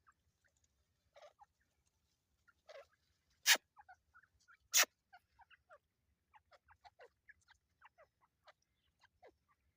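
A family of teetar (partridges) calling: many short, soft, downward-sliding chirps, scattered irregularly and coming more thickly in the second half. Two sharp, loud knocks, about a second apart near the middle, are the loudest sounds.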